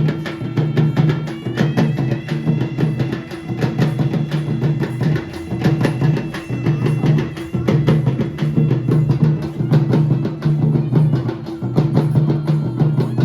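Traditional drum music: rapid, dense drumbeats over a steady low booming tone, with a high wavering melody line above them.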